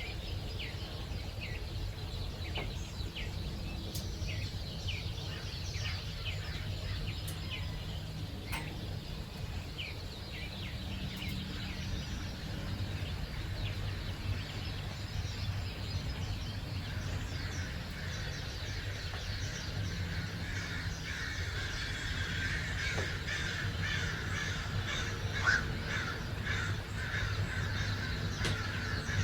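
Wild birds calling and singing in a dawn chorus, with short repeated chirps at first and a busier, denser stretch of calls in the second half, over a steady low background rumble.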